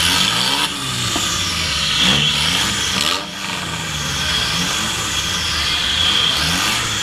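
Demolition derby car's engine revving up and down over and over as it is driven, heard from inside the cabin, with other derby cars' engines running around it.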